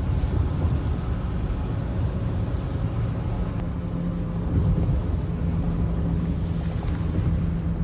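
Steady low rumble and road noise of a moving vehicle, with a constant low hum underneath.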